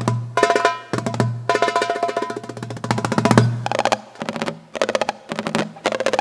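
Guitar played percussively and an Egyptian tabla (darbuka) trading fast drum-like rhythmic phrases, with ringing string notes under rapid rolls of strokes and short breaks between the phrases.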